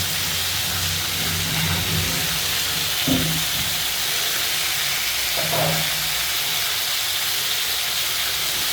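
Food sizzling in a frying pan, a steady hiss, with a soft thump about three seconds in.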